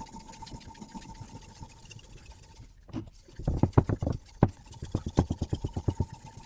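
Sharpening stone on a guided-rod sharpening system stroked rapidly back and forth along a knife blade. About halfway through, a quick run of short, loud scraping strokes starts, roughly six to eight a second.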